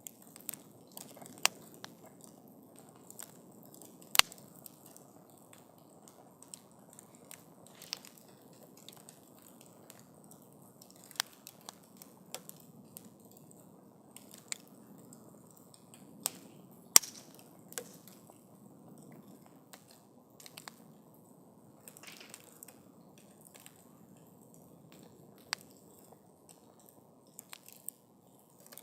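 Wood campfire crackling: irregular sharp pops and snaps over the soft, low rush of the burning fire, with the loudest pops about 4 and 17 seconds in.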